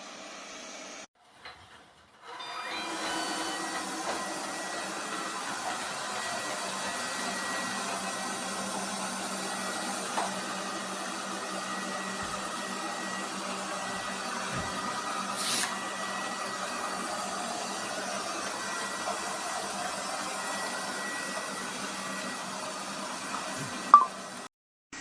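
Steady whirring hiss of a running machine. It drops out briefly about a second in and returns, with a single sharp click near the end.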